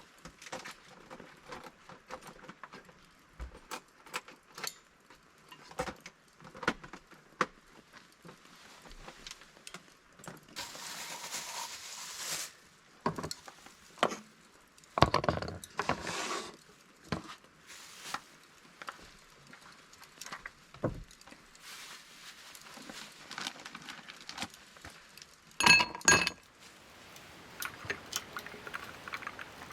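Small clinks, taps and rattles of metal camping gear and tableware being handled, with a short hiss partway through and a ringing metallic clink near the end.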